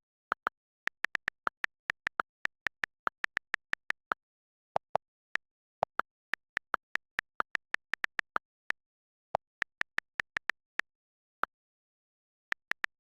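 Computer keyboard typing: a run of short, sharp key clicks at an uneven pace, a few a second, with brief pauses between bursts and dead silence between the clicks.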